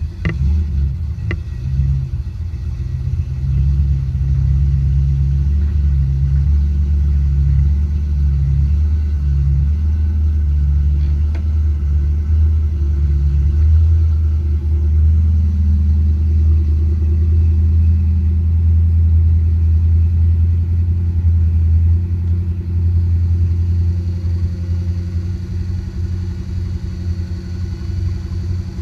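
Volvo Penta 8.1-litre marine V8 idling with a low rumble just after a cold start, having not run for a month. It is uneven at first and settles into a steady idle about twelve seconds in.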